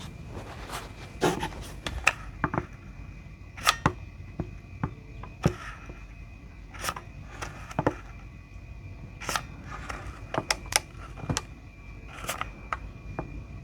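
Irregular light clicks and knocks of 18650 lithium-ion cells and small tools being handled and set down on a workbench while the cells are glued together into a pack.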